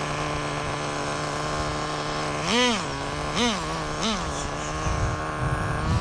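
Traxxas Nitro Rustler's small glow-fuel nitro engine idling steadily during break-in, with three short throttle blips in a row, each a quick rise and fall in pitch, just before the middle. It is running again on a freshly changed glow plug.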